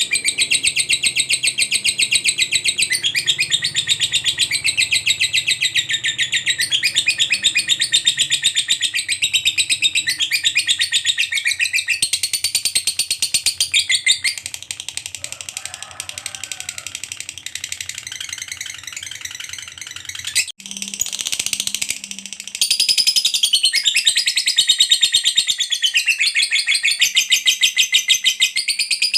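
Lovebird singing its long 'ngekek' song: a fast, high-pitched, continuous chattering trill. It goes softer about two-thirds of the way through, breaks off sharply for a moment, then resumes at full strength.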